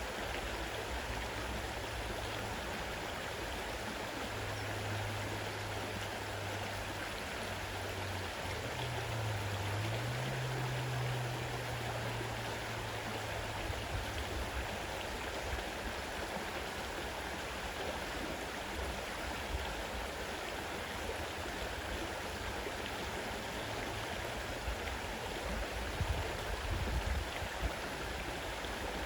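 Fast-running river water rushing steadily. A low hum sits underneath in the first half and fades out about halfway through.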